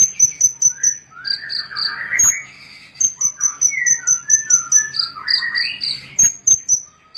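Small songbirds singing: fast runs of short, high, evenly repeated chips, about five a second, switching between two pitches, over a lower twittering warble.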